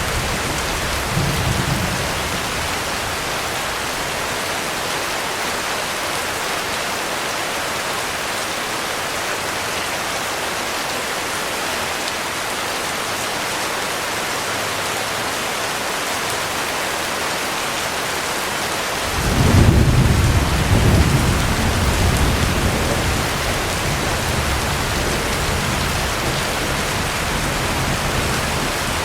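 Heavy rain falling steadily. Low thunder rumbles briefly about a second in, then a louder roll of thunder comes in about two-thirds of the way through and slowly dies away.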